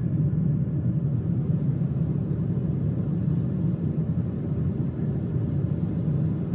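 Steady, even rumble of a Boeing 777-200ER's cabin in cruise flight: engine and airflow noise with no change in pitch.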